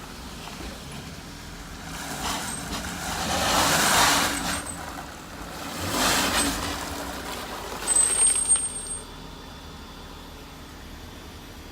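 A motor vehicle on an icy, snowy road: a low steady hum with two swells of rushing noise, then a brief high-pitched squeal about eight seconds in.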